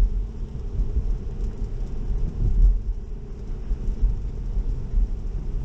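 Steady low road and tyre rumble inside the cabin of a Tesla electric car driving on a wet road, with no engine note.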